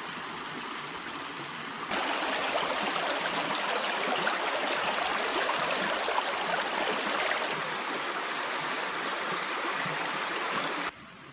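Creek water running steadily, louder from about two seconds in and cutting off suddenly near the end.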